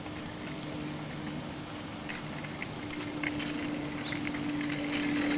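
Steady, distant engine drone of an airplane passing overhead, holding one low pitch and growing a little louder near the end, with a few faint ticks and rattles.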